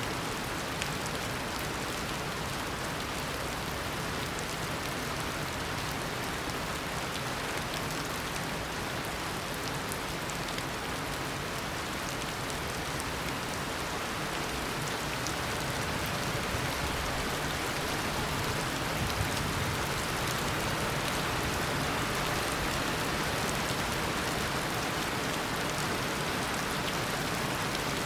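Heavy tropical rain falling steadily, a dense downpour hiss with many fine drop patters on surfaces, swelling slightly in the second half.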